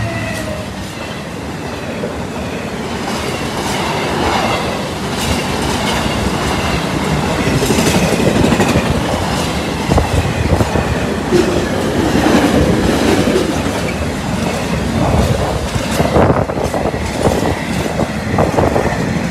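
Container freight train rolling past at close range behind a Class 66 diesel locomotive. The locomotive's engine hum is heard only at the very start; after that there is steady wheel-on-rail rumble and a clickety-clack of wagon wheels, with the clacks coming thicker near the end.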